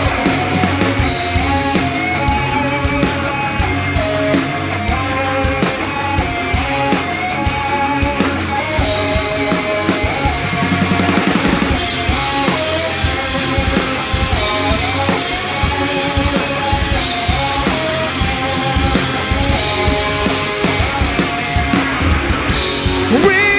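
Live rock band playing an instrumental break: drum kit keeping a steady beat under guitars, with a melody line carried by an instrument and no singing.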